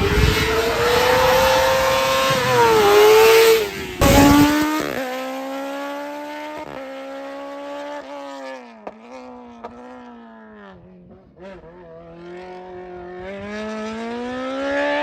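Racing car engine at high revs, its pitch climbing and dropping with throttle and gear changes. About four seconds in the sound cuts to another car heard further off, which fades and then grows louder again as it comes closer.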